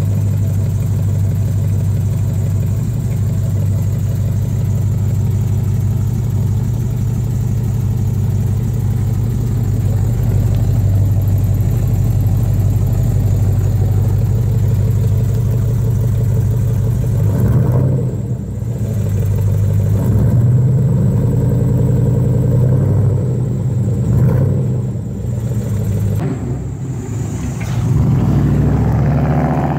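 A 5.7 Vortec small-block V8 running through a custom exhaust: steady for about the first half, then rising and falling a few times.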